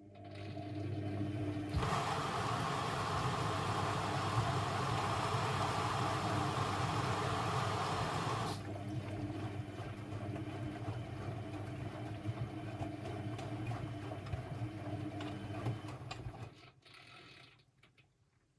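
Constructa Energy 1000s washing machine running: the motor hums steadily as the drum turns, with a loud rushing of water for several seconds in the first half. The motor stops near the end.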